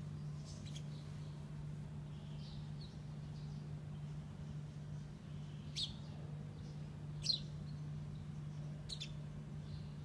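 A bird at the window: a few faint high chirps, then three short, sharp, high sounds about a second and a half apart, over a steady low hum.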